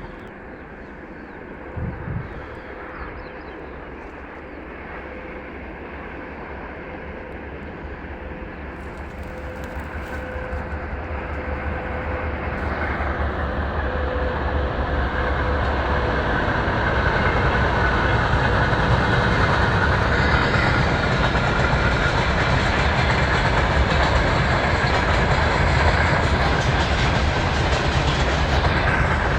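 Train wheels clattering on the rails, growing louder through the first half and then running steady and loud.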